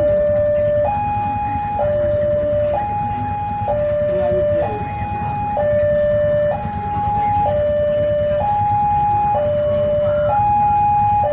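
Railway level-crossing warning alarm sounding, a two-tone electronic signal alternating steadily between a low and a higher tone, each held just under a second, over a continuous low rumble.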